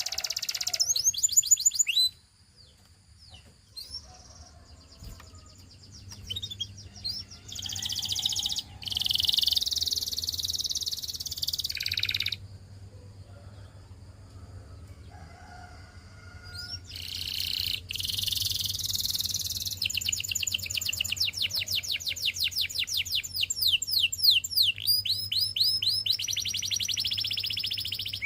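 Canary singing in long phrases of rapid trills and rolls, with two pauses of a few seconds where only faint chirps are heard, then a long run of fast repeated trill notes near the end.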